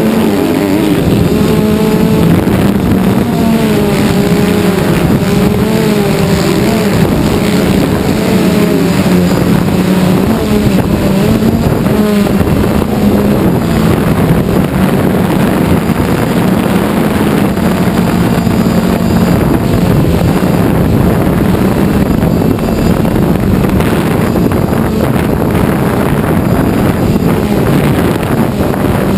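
Quadcopter drone's motors and propellers droning steadily. The pitch wavers up and down for about the first twelve seconds, then holds level.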